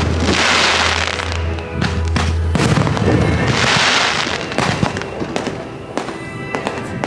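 Fireworks bursting in quick succession, with two long spells of crackling about a second and three and a half seconds in, over accompanying music.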